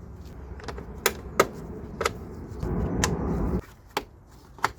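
Plastic push-in trim clips snapping into place by hand: about six sharp clicks spread out roughly a second apart, with about a second of rustling handling noise around three seconds in.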